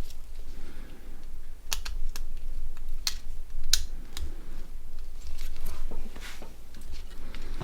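Small parts of a Nokia 6680 mobile phone being handled and fitted during reassembly: a scattered series of sharp plastic and metal clicks and taps, with some light scraping about three-quarters of the way through.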